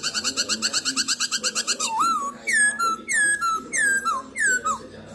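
Black-throated laughingthrush (Poksay Hongkong) singing: a fast trill of rapidly repeated notes for about two seconds, then a run of about five loud, clear whistles, each sliding down in pitch.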